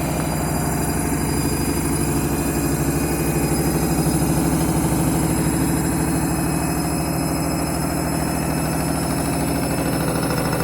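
Washing machine on its final spin, the drum running fast with a steady mechanical drone and fast, even rhythmic shaking. The spin is struggling and the whole machine is shaking badly.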